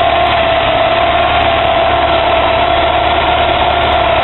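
Porsche 944's four-cylinder engine idling steadily with its serpentine belt off, so the alternator and AC compressor are not being driven, with a steady whine running over the idle. Started this way, it runs with no problem.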